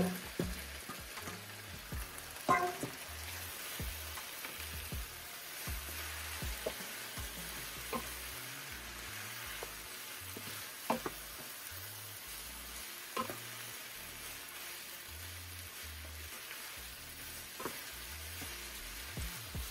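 Chicken strips, bell peppers and onions sizzling in a ceramic skillet as they are stirred with a wooden spatula. A few sharp knocks of the spatula against the pan come at intervals over the steady sizzle.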